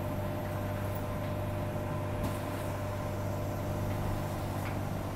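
Steady electric hum inside a Walkers A-series electric multiple unit: a low drone with a few steady tones above it.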